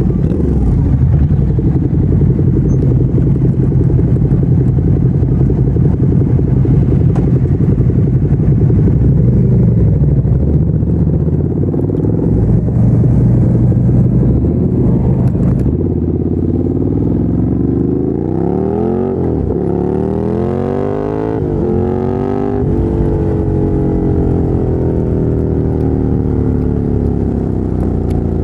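2017 Ducati Monster 797's air-cooled L-twin engine through a LeoVince LV-10 exhaust. It holds a steady note for about the first half, then revs up and down, its pitch rising and falling several times as the bike accelerates and slows through the gears.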